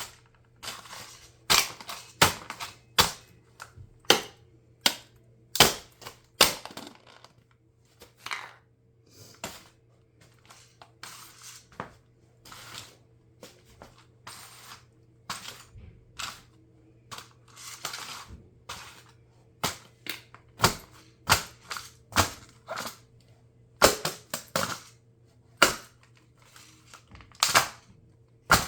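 Plastic of a toy RC car cracking and snapping under high heels: a long irregular string of sharp cracks, the loudest near the end, over a faint steady hum.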